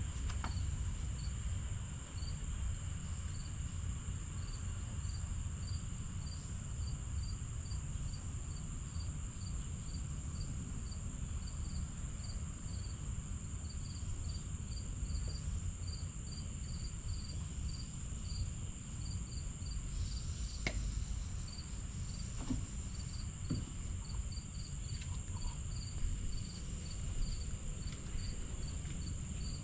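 Crickets chirping, short chirps repeating about twice a second over a steady high-pitched insect trill, with a low background rumble. A few faint clicks come a little over two-thirds of the way through.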